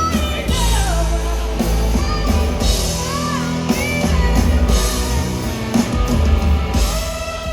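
Live blues-rock band playing loud, with electric guitar, bass and drum kit. A woman's sung note carries over into the first moments, and bending melodic lines follow.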